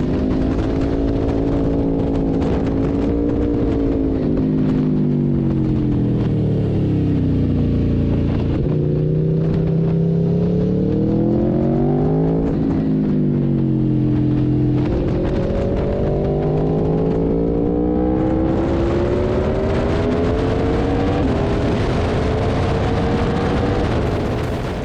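Aprilia RSV4 1100 Factory's V4 engine at full noise on track. The revs fall for several seconds, climb again, drop sharply about halfway through, then climb steadily through the rest.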